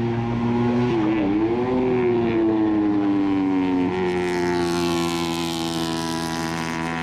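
Moto3 racing motorcycles' 250 cc single-cylinder four-stroke engines running at speed past the track side. The engine pitch dips briefly about a second in, then steps up about four seconds in as a louder, hissier pass builds.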